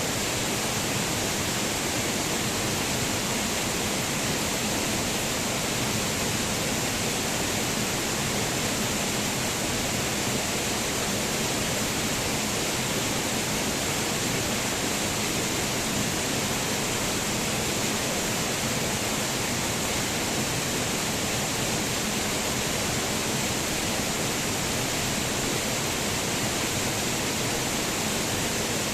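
Waterfall: falling water rushing in a steady, even hiss with no change in level.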